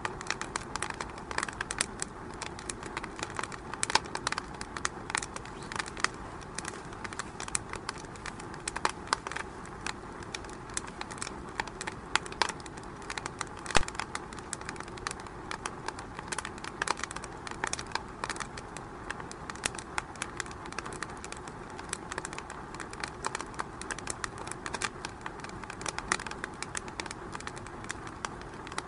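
Wood fire burning in a fireplace, crackling with frequent irregular pops over a steady low hiss; one louder pop comes about 14 seconds in.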